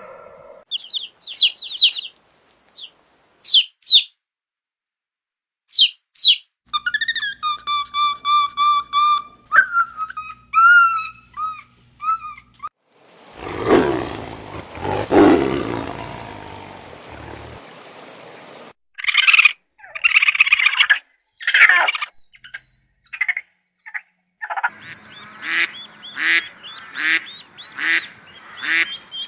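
A run of different animal calls, one after another: short high chirps at first, then pitched calls, a long noisy stretch in the middle, and a fast series of repeated calls near the end.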